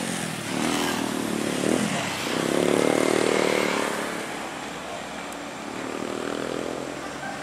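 Heavy diesel engine running, revving up about two seconds in and easing back down over the next couple of seconds.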